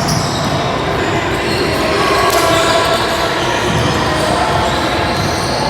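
Basketball game in a gym: a ball bouncing on the court amid the steady noise of players and spectators.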